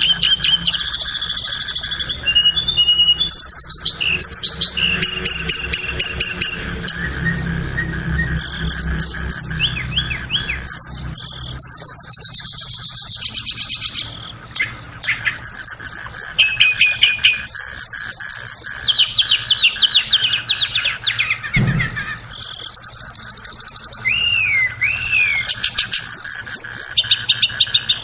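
Tledekan birdsong: rapid high chirps, trills and fast repeated notes in phrase after phrase, with short breaks. It is a lure recording used to set caged tledekan singing. A faint steady hum runs beneath it.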